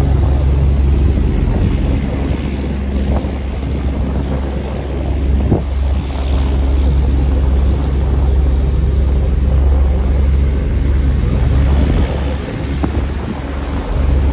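A river tour boat's engine running with a steady low drone, with wind blowing on the microphone.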